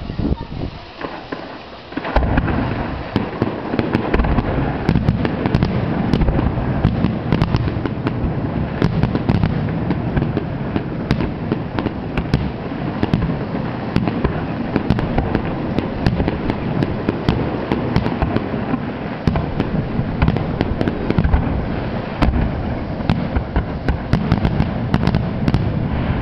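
Fireworks finale barrage: after a quieter couple of seconds, a dense, continuous run of shell bursts with many sharp crackles layered over a low rumble.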